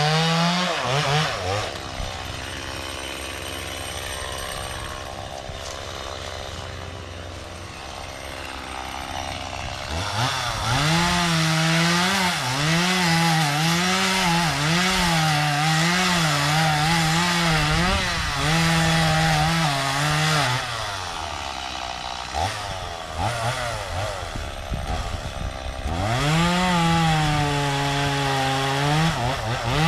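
Stihl two-stroke chainsaw idling low, then revved hard in quick repeated surges with its pitch rising and falling. It drops back toward idle about two-thirds of the way in and revs up again near the end.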